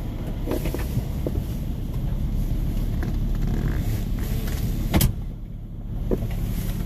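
Car engine idling, heard from inside the cabin as a steady low hum, with a single sharp click about five seconds in.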